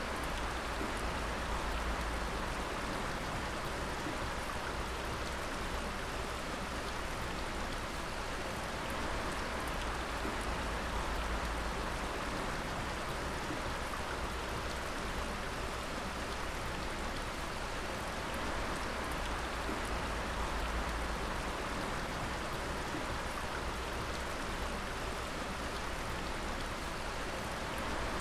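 Water dripping steadily, many drops pattering together like rain over an even watery hiss that does not change.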